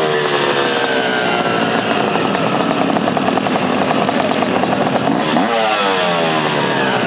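Dirt bike engine running hard. Its revs fall away over the first two seconds, hold fairly level, then climb again about five seconds in.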